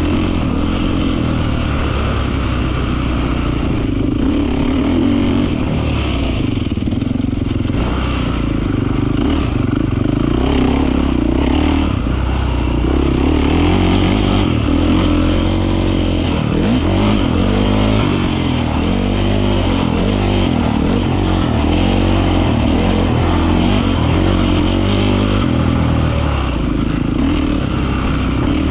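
Beta 450 RX motocross bike's four-stroke single-cylinder engine being ridden, its pitch rising and falling over and over as the throttle is opened and shut.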